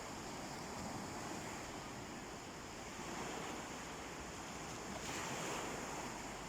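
Gentle sea waves washing onto a beach, a steady surf with a soft swell about three seconds in and a louder wave breaking about five seconds in.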